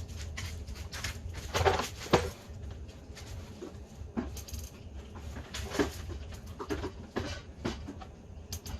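Irregular knocks and clanks of metal parts and tools being handled while an ATV engine is worked loose from its frame, louder about two seconds in and again near the middle, over a steady low hum.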